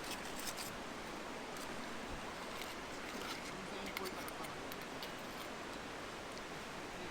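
Paella pan sizzling over a campfire: a steady hiss with scattered faint crackles and ticks.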